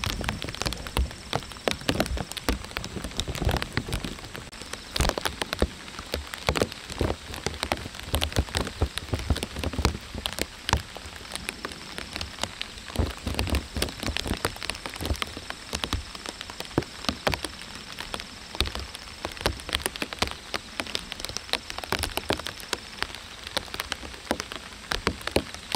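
Rain falling, with many separate sharp drop hits over a steady patter.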